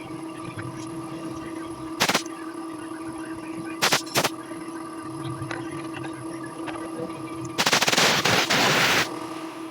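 Pressurized jet hissing in short blasts while cleaning a scooter carburettor: one brief blast, then two close together, then a longer blast of about a second and a half near the end, over a steady hum.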